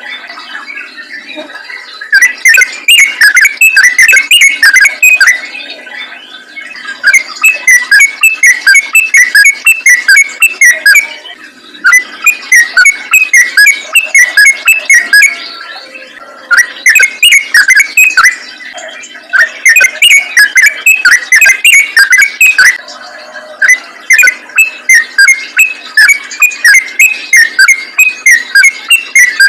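Yellow-vented bulbul song: loud phrases of rapid, chattering notes, each phrase a few seconds long, broken by short pauses and starting again.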